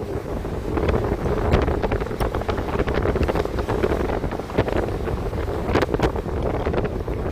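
Wind buffeting the microphone over the steady rumble of a moving train, heard from on board, with scattered short clicks and rattles.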